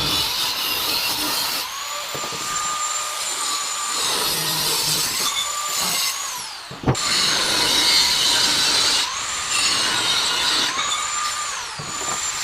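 Angle grinder working steel on the frame, its whine sagging and recovering every couple of seconds as it bites and lifts, with one sharp knock about seven seconds in.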